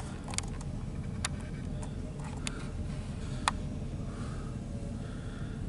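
Low, steady rumble of a CSX double-stack intermodal freight train rolling away from the crossing, with a few scattered sharp clicks.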